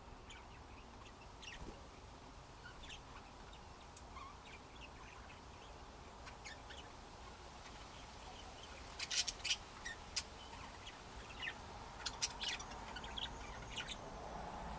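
Pet budgerigars making short, scattered chirps and clicks, with louder bursts of sharp clicks about nine seconds in and again around twelve seconds.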